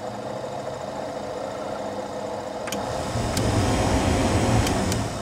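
Chevy truck's heater/AC blower fan running with a steady whir, louder from about three seconds in, with a few light clicks in the second half. It sounds a lot noisier than it used to.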